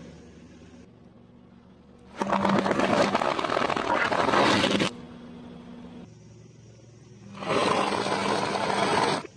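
Food crunching and crackling as a car's tyre crushes it, in two long bursts of nearly three and about two seconds, with a low steady hum between them.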